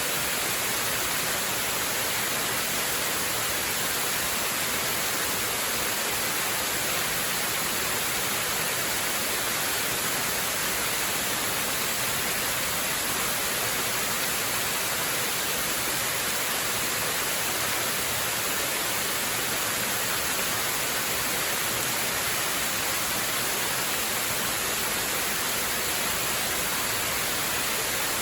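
Waterfall: a steady, unbroken rush of falling water, a bright even hiss with little low rumble.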